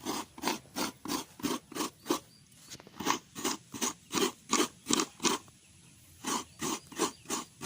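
Fresh coconut being grated by hand on a coconut scraper: rhythmic rasping strokes, about three a second, with two brief pauses.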